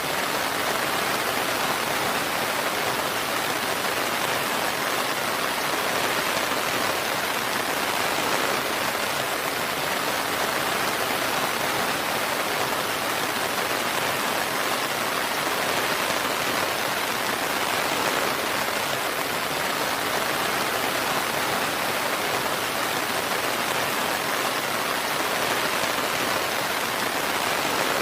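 Steady rain falling, an even hiss of raindrops with no thunder.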